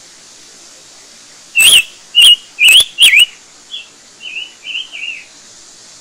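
A bird calling: four loud whistled chirps, each sweeping up and down in pitch, about half a second apart, followed by a softer run of shorter chirps.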